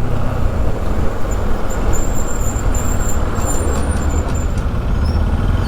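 Steady wind rush and rumble on a helmet-mounted action camera's microphone while riding a motorcycle, with engine and road noise underneath.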